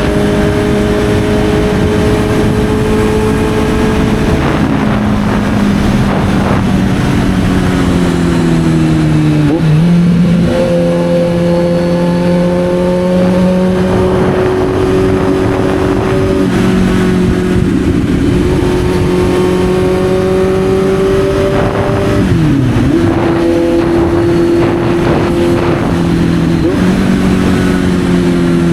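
Kawasaki Z900's inline-four engine running under way, its pitch easing down slowly for several seconds. The revs dip sharply and pick up again twice, about ten seconds in and again about twenty-two seconds in.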